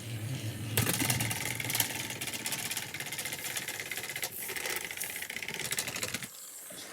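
Two battery-powered toy train engines running their small motors and gears against each other in a pushing contest, a steady whirring rattle that stops shortly before the end.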